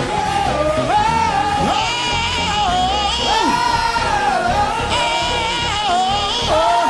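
Gospel praise-break music: a lead singer holds long, sliding wordless notes over the band.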